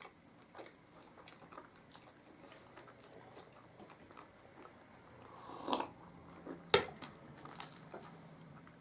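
Soft chewing of puff pastry, then a single sharp clink about two-thirds of the way in as a glass tea mug is set down on its saucer.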